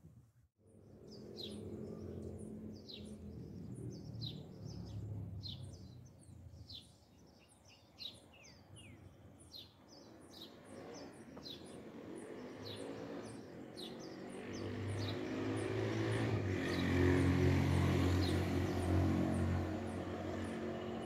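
Birds chirping in quick, repeated short calls. A low engine hum, like a vehicle, builds up in the second half.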